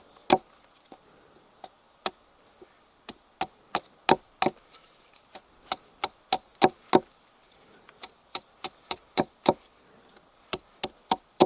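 A tarp stake being hammered into the ground: runs of sharp blows, about three a second, with short pauses between runs. Insects drone steadily behind.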